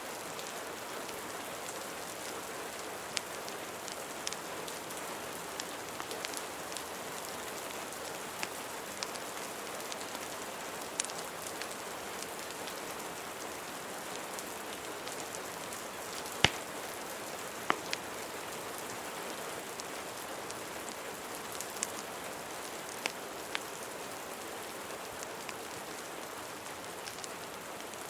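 Steady rain with scattered sharp crackles and pops from a fireplace. Two louder pops come a little past halfway.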